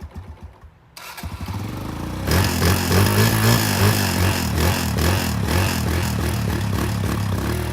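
A 140 dirt bike's engine is kickstarted: about a second in it catches and sputters, then picks up and runs steadily with a fast, even beat.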